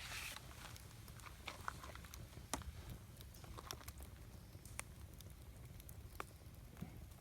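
Wood campfire crackling: irregular sharp pops and snaps from the burning wood over a low steady rumble of the flames, with one louder pop about two and a half seconds in.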